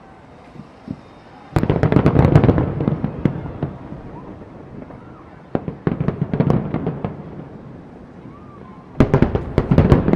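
Aerial fireworks going off in three rapid salvos of bangs and crackles, starting about a second and a half in, again around the middle, and again near the end.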